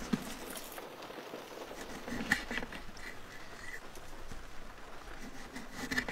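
Rain pattering steadily, with a few sharp knocks and clicks at irregular moments.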